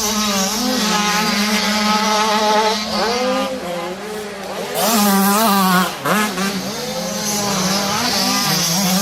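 Motocross dirt bike engines revving hard through gear changes, the pitch repeatedly climbing and dropping. The bikes are loudest about five to six seconds in.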